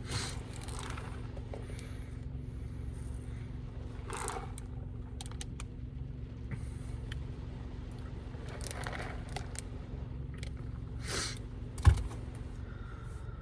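A man's hiccups and breathing, a few seconds apart, over a steady low hum; the sharpest hiccup comes near the end.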